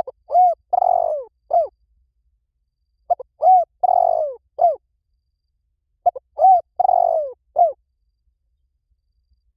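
Spotted dove cooing: its phrase of two or three short notes, a longer rolling coo and a short closing coo, repeated three times about every three seconds.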